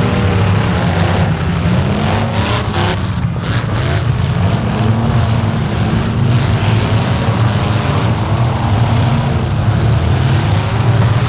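Several large truck engines running loudly and revving up and down, with a few sharp knocks between about two and four seconds in.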